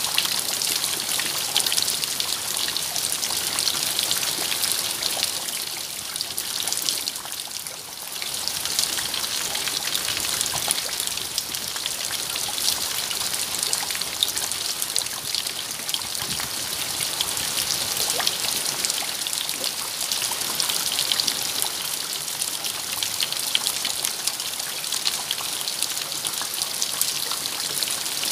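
Steady rain with dense, fine drop ticks, easing briefly about seven seconds in.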